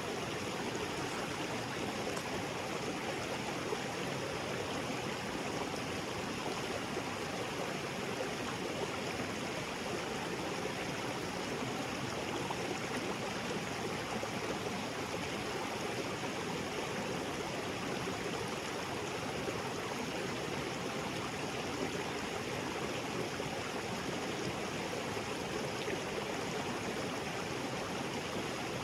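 Small tropical waterfall and creek water splashing and flowing over rocks in a steady, even rush, with no breaks or changes.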